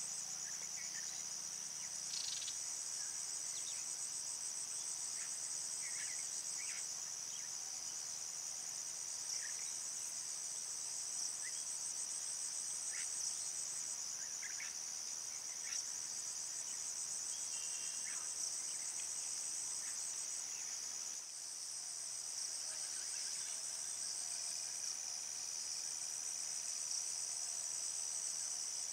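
A dense chorus of insects: a steady, high, shrill trilling with a fine pulsing texture, broken now and then by short faint chirps lower in pitch.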